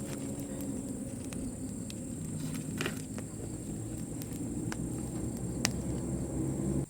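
A steady high insect buzz over a low, uneven rumble, with scattered sharp clicks and snaps; it all cuts off suddenly at the end.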